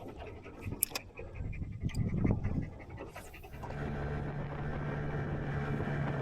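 Knocks and handling noises on a small boat, then about halfway through a small boat motor starts running with a steady low hum.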